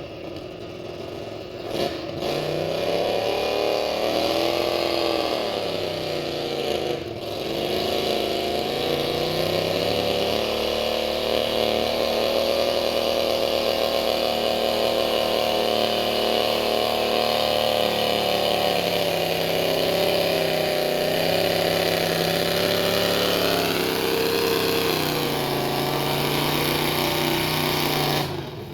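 Pulling garden tractor's engine running hard at high revs, its pitch dipping and recovering a few times with one long steady stretch.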